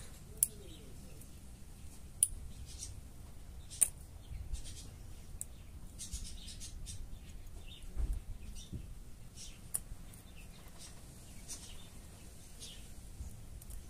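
Faint, scattered high-pitched chirps of small birds, with a few light clicks and a dull knock about eight seconds in.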